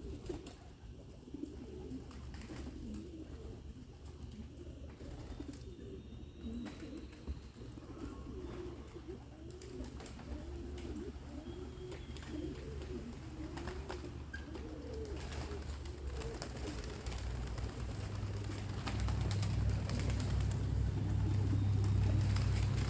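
Racing pigeons cooing repeatedly in the loft, a run of low, wavering coos. A steady low rumble underneath grows louder over the last few seconds.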